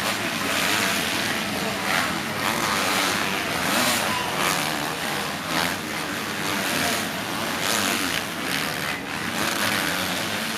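Motocross bikes racing, their engines revving up and down in pitch without a break.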